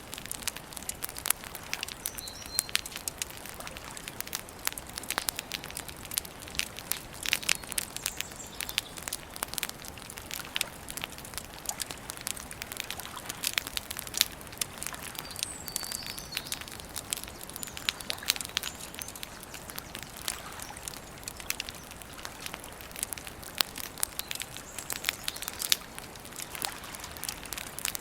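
Campfire crackling, with a dense, irregular run of snaps and pops over a soft hiss of burning wood. A few faint bird chirps sound in the background.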